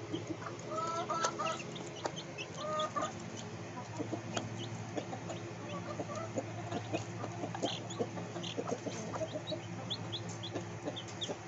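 Chickens clucking, with many short high peeps from chicks throughout and a steady low hum underneath.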